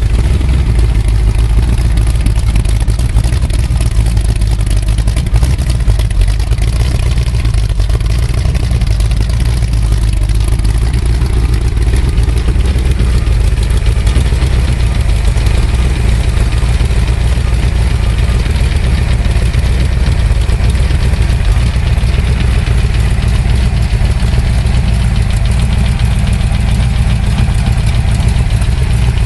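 Ford 427 FE big-block V8, stroked to 482 cubic inches with a medium-riser dual four-barrel setup, idling steadily while still cold.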